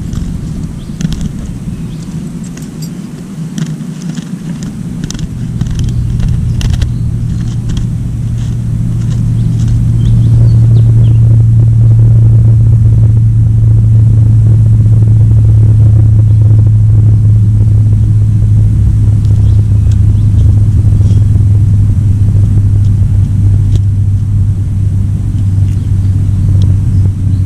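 A motor vehicle's engine running with a steady low hum, growing louder over the first ten seconds and then holding steady; a few sharp clicks sound in the first several seconds.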